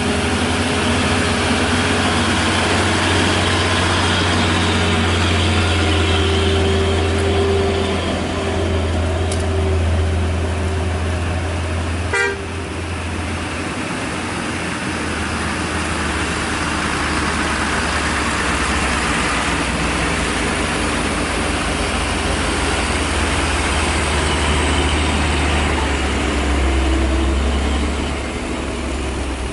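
Heavy diesel engine running steadily, with a brief honk-like tone partway through and a single sharp click about twelve seconds in.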